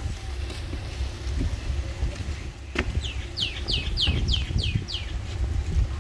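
A bird calls a quick run of about seven short notes, each falling in pitch, starting about three seconds in, over a low steady rumble.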